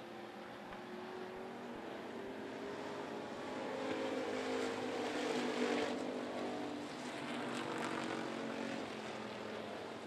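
Several dirt-track enduro race cars running at speed around the track, their engine notes overlapping. The sound swells to its loudest as the pack passes, about five seconds in, then eases off.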